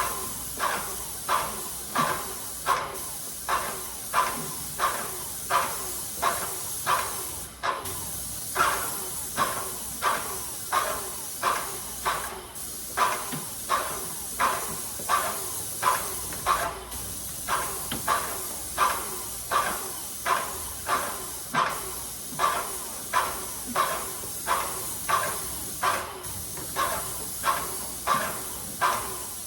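Paint sprayer hissing steadily, with a regular pulsing of about one and a half beats a second; the hiss dips briefly every four to five seconds.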